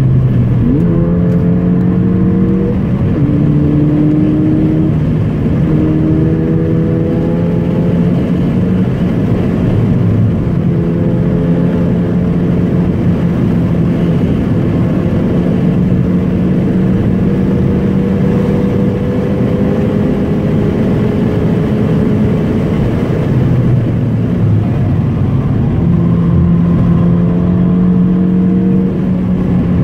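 A car's engine heard from inside the cabin, pulling hard through the gears: its note climbs repeatedly and drops back at each upshift, with a long steady stretch at speed in the middle, over constant tyre and road noise.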